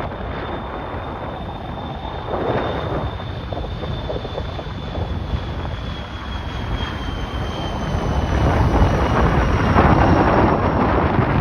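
Heavy wind buffeting the microphone over the sound of a jet airliner's engines. A thin high whine falls slowly in pitch, and the engine noise grows louder toward the end.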